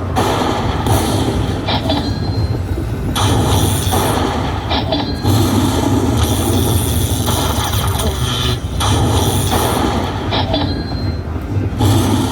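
Loud, steady casino-floor din around a slot machine during its free spins, with a few short electronic chimes from the machines.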